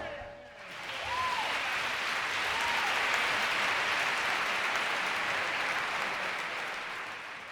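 Audience applauding at the end of a live big-band jazz number, with the last brass note dying away just at the start and a couple of faint calls from the crowd; the applause fades out near the end.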